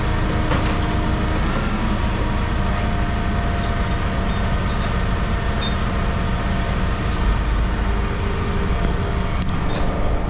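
Heavy scrap-yard machinery running steadily: a loud, even mechanical drone holding several constant tones, with a few faint ticks.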